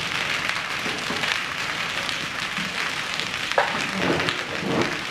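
Hail and heavy rain pelting down in a steady, dense hiss of impacts, with one sharper hit about three and a half seconds in.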